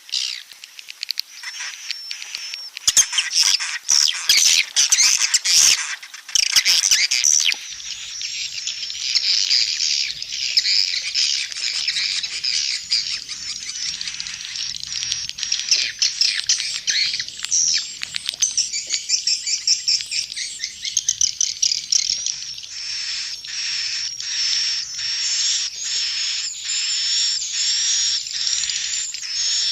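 Swiftlets twittering: a dense, continuous, high-pitched chatter of rapid chirps and trills, the kind of call played to lure swiftlets to roost and nest.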